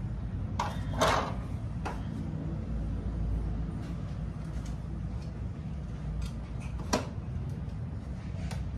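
A few sharp clicks and knocks of hands and tools on photocopier parts during disassembly, the loudest about a second in and another near seven seconds, over a steady low rumble.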